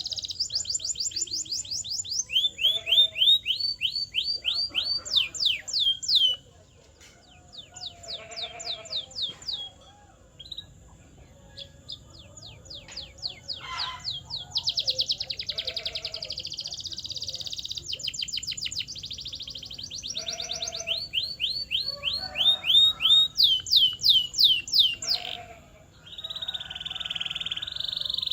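Male canary singing a long song of fast repeated trills: runs of quick down-sweeping notes in phrases of a few seconds, with brief pauses between them, closing in a steady buzzy roll near the end.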